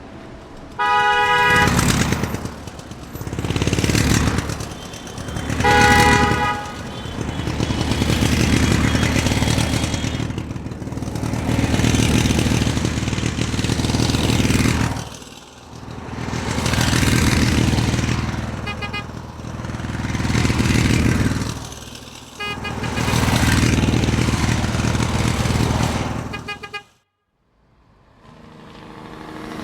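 A vehicle engine revs up and dies down again and again, every few seconds. A horn toots loudly about a second in and again around six seconds. The engine sound cuts out abruptly near the end, then builds back up.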